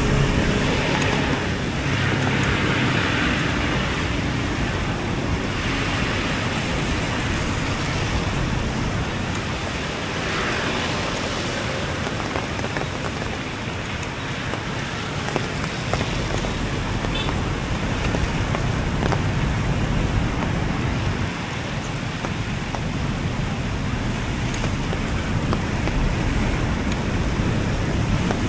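Steady hiss of rain mixed with road traffic, with a low rumble throughout and several passing vehicles swelling up and fading, most clearly in the first dozen seconds.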